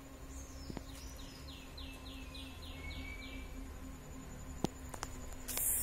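A bird singing a short phrase of about seven quick falling notes, roughly three a second, starting about a second in, over faint outdoor background noise.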